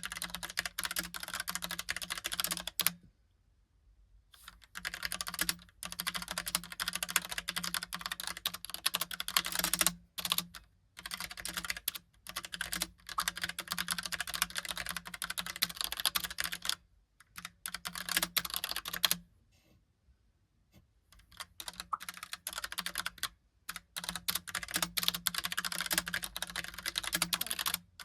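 Typing on a Logitech (Logicool) Pop Keys mechanical keyboard with round, typewriter-style keycaps: quick runs of clacking keystrokes in bursts, broken by a few short pauses.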